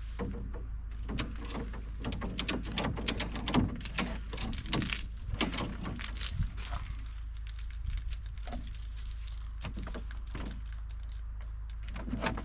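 Ratchet strap being cinched down: a quick run of clicks and rattles from the ratchet and strap hardware, thinning out after about six seconds.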